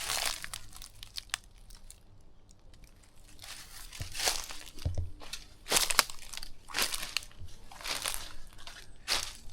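Footsteps crunching through dry undergrowth, about one step a second, with a short pause early on.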